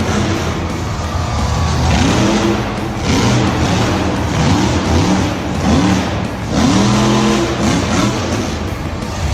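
Vehicle engine revving: a run of quick rising revs in a row through the middle, with a steadier engine drone either side. Background music is faintly mixed in.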